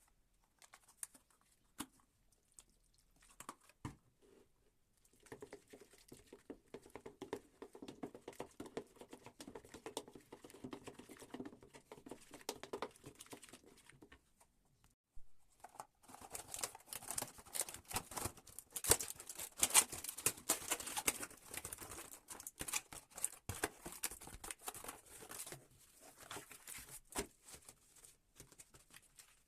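Close rustling and crackling handling noise, a quick run of small ticks and crinkles. It comes in two stretches, the second louder and busier, then tails off near the end.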